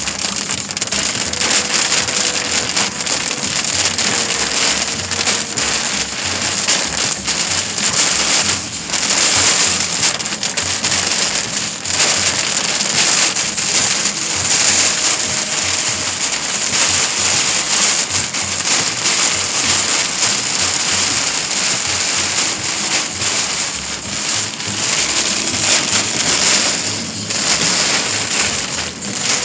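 Heavy storm rain pelting a hard surface, a dense, loud, crackling patter of drops that swells and eases every few seconds.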